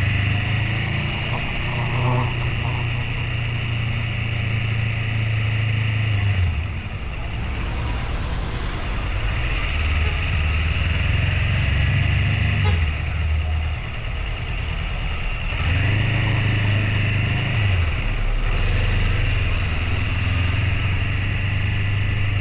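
Motorcycle engine running under way. Its low hum drops off and picks up again several times.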